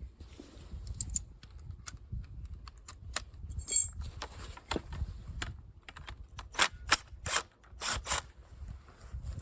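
Hand tools and small metal engine parts clicking and clinking during disassembly of a small mower engine, with one brief ringing metallic clink about four seconds in and a run of louder clacks near the end.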